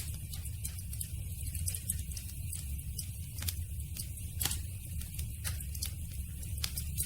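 Campfire burning: wood crackling with frequent sharp, irregular snaps over a steady low rumble.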